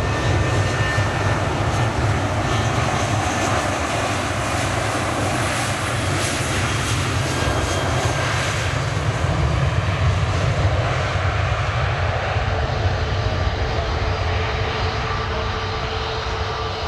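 Airliner engines, a loud steady rumble with a hiss that thins out in the second half as the aircraft moves away.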